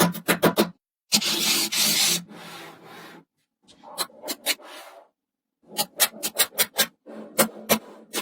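Small magnetic balls clicking as they snap together, in quick runs of sharp clicks. Between the runs comes a rough rubbing rattle, loudest about a second in.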